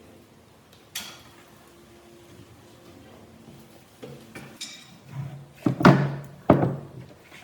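Wooden knocks and clunks: one sharp knock about a second in, a few lighter ones later, then three loud knocks close together near the end, each leaving a short low ring.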